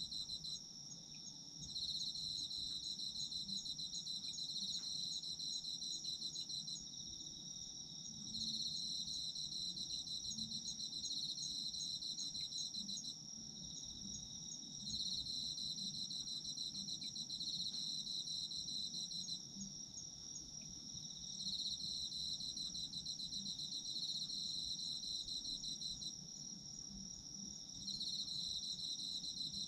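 Chorus of autumn crickets: one high, steady trill runs on without a break, while a second, lower pulsing trill sounds in bouts of about four to five seconds with short pauses between them.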